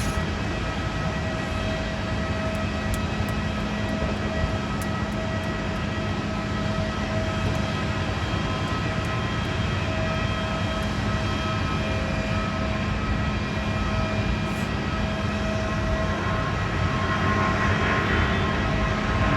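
Jet airliner engines running with a steady whine of several held tones over a rushing noise, growing louder near the end.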